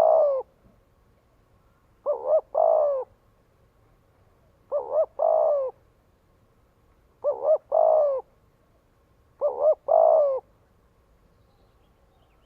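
Spotted dove cooing: a decoy male repeats its three-note call, two quick short coos followed by a longer falling coo. The call comes about every two and a half seconds, four full times here, and stops well before the end.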